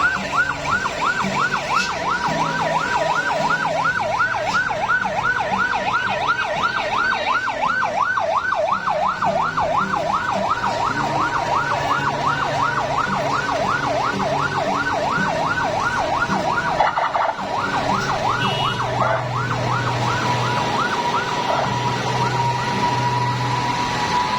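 Electronic siren yelping fast, about three up-and-down sweeps a second, settling into a steady tone about three-quarters of the way through, over a heavy vehicle engine running underneath.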